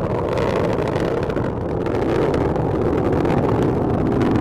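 Delta IV Medium+ (5,4) rocket in supersonic ascent, its RS-68A main engine and four solid rocket motors firing: a steady, loud rumble with no distinct tones.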